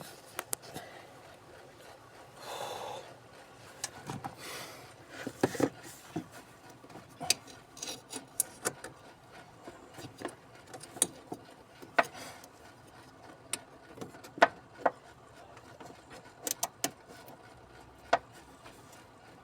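Hand tools working at the plastic-housed gas pedal module of a truck: irregular sharp clicks and knocks, with short scraping rubs about three and four and a half seconds in.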